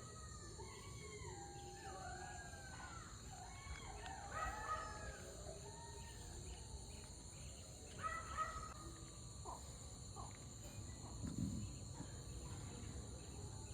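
Faint chorus of kurukkan (jackals) howling: several overlapping rising-and-falling calls in the first few seconds, then another short bout about eight seconds in.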